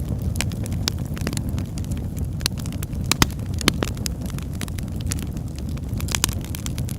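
Log fire burning with a steady low rumble and frequent sharp crackles and pops of burning wood, the loudest pops about three seconds in and a cluster near the end.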